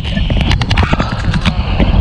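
Strong wind buffeting the microphone in a heavy rumble, with many irregular sharp flaps and clicks over it.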